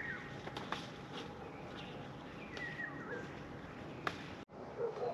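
Small birds chirping now and then, short quick chirps, over a steady outdoor background hiss with a faint hum. Two sharp clicks sound, and near the end the sound cuts out for an instant.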